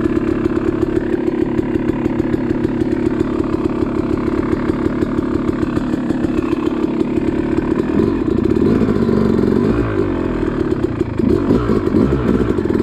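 Yamaha YZ two-stroke dirt bike engine running at low revs. It holds steady for most of the time, then rises and falls in pitch with throttle changes in the last few seconds.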